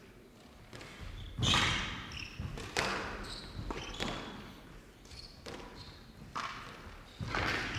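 Squash rally: the ball cracks off rackets and the court walls in sharp, irregularly spaced strikes that ring in the hall, with short high squeaks of players' court shoes on the floor between them.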